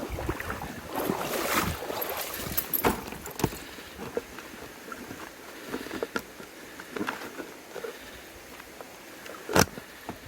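Water splashing and sloshing with irregular knocks and handling clatter, one sharp knock near the end.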